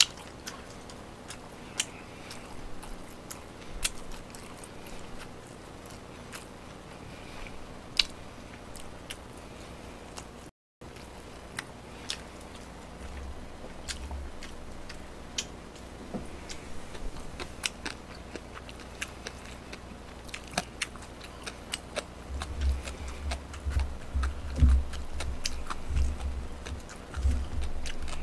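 Close-miked chewing and biting of food, with many small scattered clicks and smacks, and heavier low thuds near the end.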